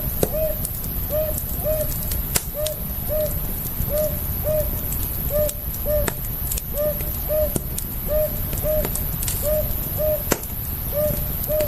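Campfire crackling, with irregular sharp pops over a low rumble. A bird calls steadily throughout in short paired notes, a little under one pair a second.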